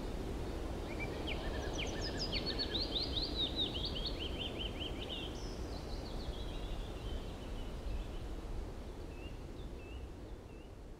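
Outdoor ambience of steady low noise with a songbird singing a rapid twittering phrase of quick falling notes in the first half, then a few faint chirps; the whole fades out toward the end.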